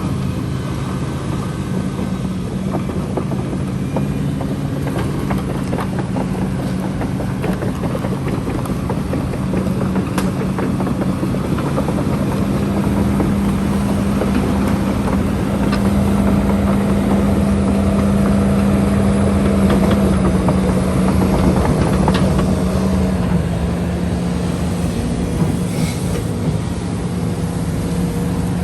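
Diesel engine of a heavy dredging machine running steadily under work, a little louder for a few seconds midway, with a few short knocks over it.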